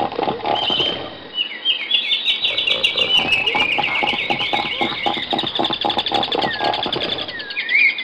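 Seals calling at a colony: a fast pulsing call at about four pulses a second, with a steady run of high chirping notes over it.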